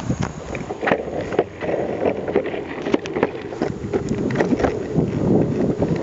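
Longboard wheels rolling over rough pavement, a steady rumble broken by frequent clicks and knocks from cracks and small debris, with wind buffeting the microphone.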